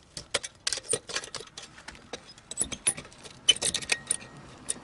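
Screwdriver working at the aluminum cooling fins of a microwave oven's magnetron, a run of light, irregular metallic clicks and clinks.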